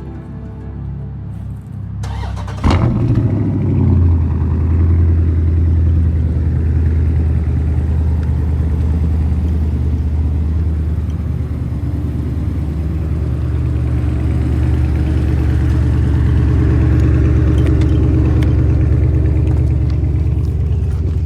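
Dodge Charger SRT 392's 6.4-litre HEMI V8 starting up: a brief crank about two and a half seconds in, the engine catching with a loud flare, then settling into a steady deep idle.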